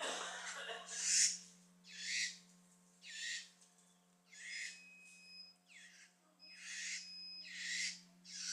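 Trinca-ferro-gongá birds at the nest during a feeding: a series of short, harsh, hissing calls, about one a second, some rising and falling in pitch, of the kind a begging chick makes.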